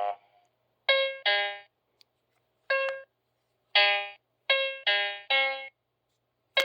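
Handheld Memory Maze electronic memory game, a four-button Simon-style toy, playing its piano-sample button tones: seven short piano-like notes of a few different pitches, each dying away, with gaps between them.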